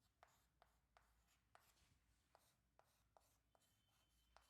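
Near silence, with a row of very faint ticks and scratches of a pen writing.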